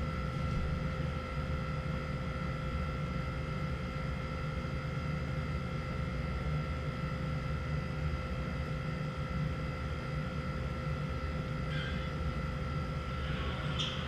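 A steady mechanical hum with a low drone and a constant high whine, like a running fan or air conditioner. Faint taps and rustles come near the end.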